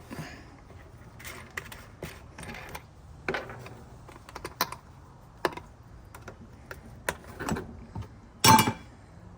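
Rock tumbler barrel and tumbled opal rough being handled: scattered light clicks and knocks of small stones and the barrel, with a louder clatter near the end.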